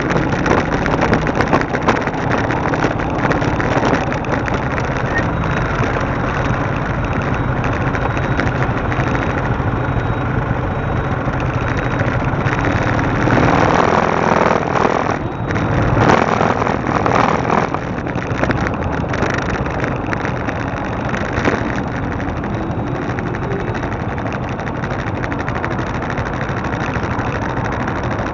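Motorcycle engine running steadily while riding, getting louder for a couple of short stretches about halfway through.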